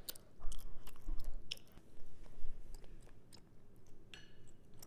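A person chewing a mouthful of chewy tteokbokki rice cakes in sauce, with irregular wet mouth clicks.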